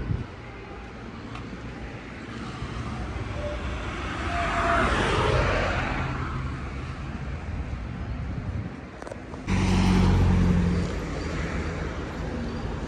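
Road vehicle noise: a vehicle passes, swelling and fading about five seconds in, and from a sudden change a little before ten seconds a steady low engine hum runs on.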